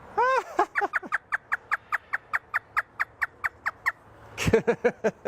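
African grey parrot imitating a hysterical laugh: a few slower arching notes, then a rapid run of about a dozen short falling notes at roughly four a second. A few more brief voiced notes come near the end.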